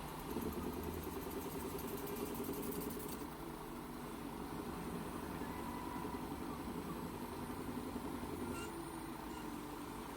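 Machining equipment running with a steady hum. A fast, high chatter sounds over the first three seconds, and a single click comes near the end.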